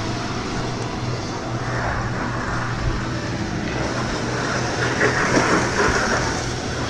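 Go-karts running on a track: a steady low motor hum under a wash of noise, getting a little busier about five seconds in.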